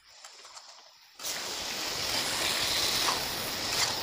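Chicken frying in an oiled steel kadai while it is stirred: a faint start, then a steady, loud sizzling hiss that cuts in abruptly about a second in.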